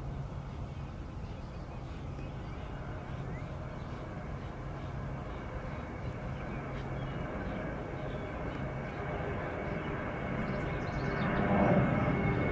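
Jet airliner engine noise: a steady rumble that grows louder about eleven seconds in, with a high whine appearing as the aircraft draws nearer.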